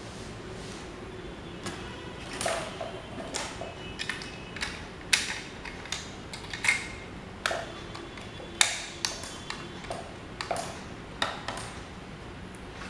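Irregular clicks and light metallic clinks, several ringing briefly, from small metal parts of an old desk fan being handled.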